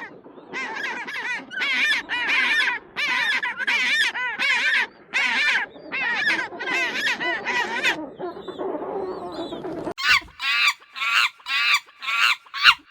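A bird calling in a long series of loud honking calls, about one and a half a second; after a quieter stretch, a faster run of higher calls, about three a second, starts abruptly near the end.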